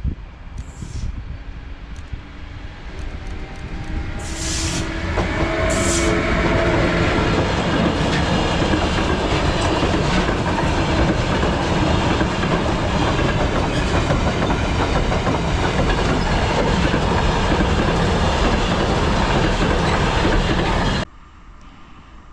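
Freight train passing close by, its wagons rumbling and clattering over the rails. It grows louder over the first several seconds, holds steady, and cuts off suddenly near the end.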